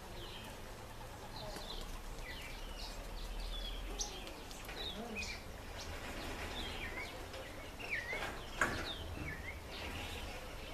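Birds chirping, with many short, high calls and curving whistled notes scattered throughout, over a steady low background rumble. There is a sharp click about four seconds in and another near the end.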